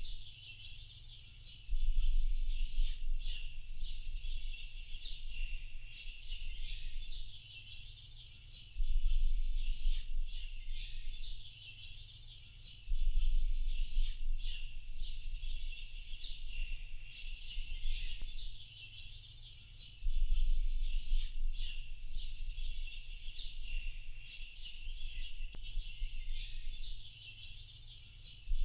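Many small birds chirping and twittering without pause in a high, busy chorus. A deep low rumble cuts in suddenly four times and fades away over a few seconds each time, louder than the birds.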